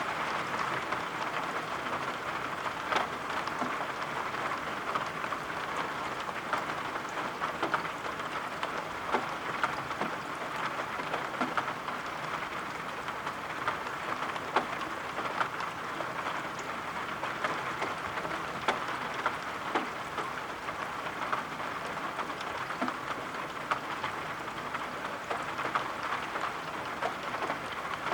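Rain falling steadily, a constant hiss with scattered sharper taps of single drops.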